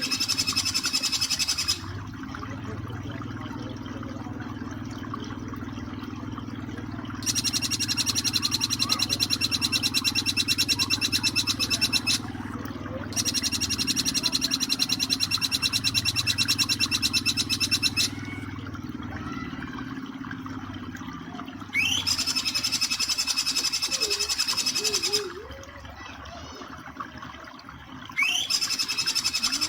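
Recorded jingjing petulak song in the fast 'nembak' style: bursts of a very rapid, high, buzzy trill, each opening with a quick rising whistle. Five bursts, the longest about five seconds, with short gaps between them over a steady low background hum.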